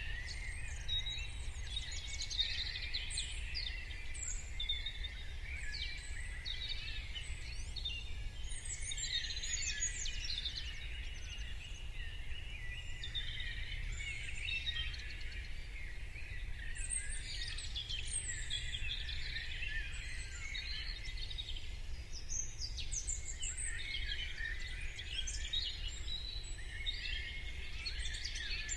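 A morning chorus of many birds singing and calling at once, dense overlapping chirps with no pause, over a steady low rumble.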